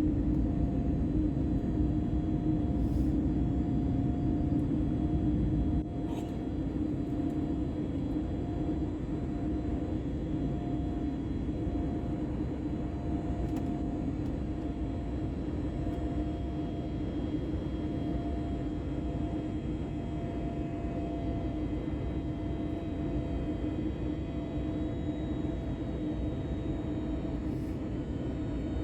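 Airbus airliner heard from inside the cabin: a steady engine and airflow rumble with a low hum. A fainter higher tone pulses on and off about once a second. The noise drops a step about six seconds in.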